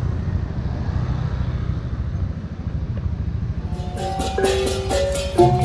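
Steady low rumble of a motor scooter on the move, engine and wind mixed together. About four seconds in, background music with marimba-like mallet notes and light percussion starts.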